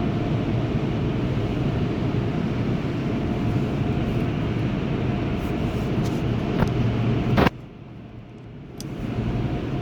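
Tunnel car wash equipment working on the van, heard from inside the cabin: a steady rushing noise with a low hum. It drops off suddenly about seven and a half seconds in, then builds again just before the end.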